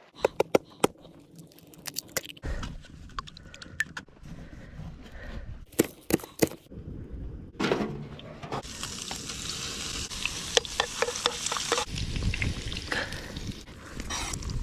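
Metal utensil clicks and scrapes against a pan and crab shell, then, from about eight seconds in, a steady sizzle of food frying in a hot pan as the crab omelette cooks.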